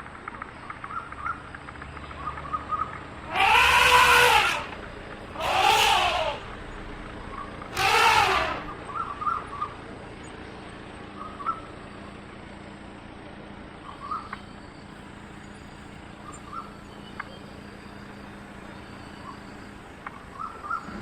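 An animal giving three loud, drawn-out calls about two seconds apart, each rising then falling in pitch, with faint short chirps in between.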